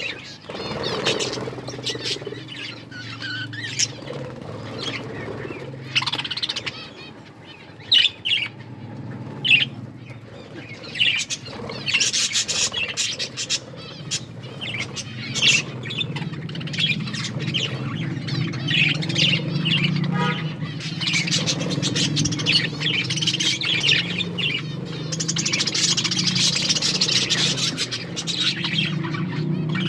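Budgerigars chirping and chattering, thickening into continuous chatter from about twelve seconds in, with a few loud sharp clicks between. A steady low hum runs underneath.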